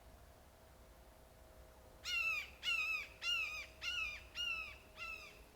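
A crow cawing: a run of six short, harsh caws about half a second apart, starting about two seconds in, each dipping in pitch at its end.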